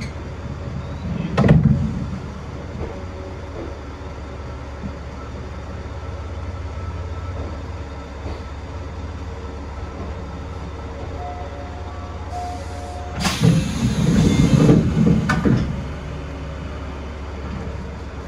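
Local electric train running, a steady low rumble and hum of motors and wheels heard from the cab. There is a short knock about a second and a half in, and a louder, rougher stretch of rattling noise lasting about two seconds near the end.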